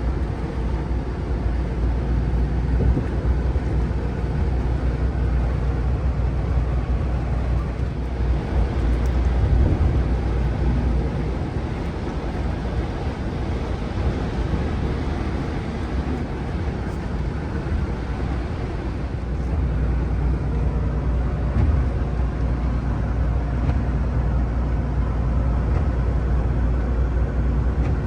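Scania truck on the move: a steady low engine drone mixed with road noise.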